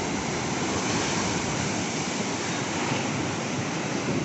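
Steady rushing noise of ocean surf and wind on the microphone.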